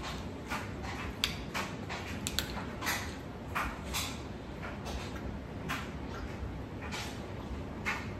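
Close-up eating sounds from a seafood boil in garlic butter sauce: wet chewing and lip smacks, short irregular clicks every half second or so.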